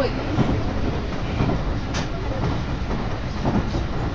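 Interior noise of a local train under way: a steady rumble of wheels on rails and running gear, with a single sharp click about two seconds in.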